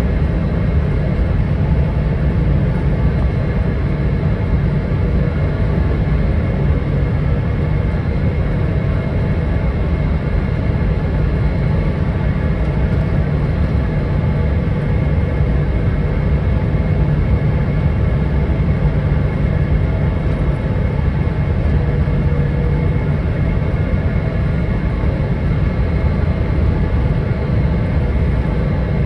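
Steady cabin noise inside a Boeing 777-300ER airliner: a constant low rumble of engines and airflow with a few faint steady tones above it, unchanging throughout.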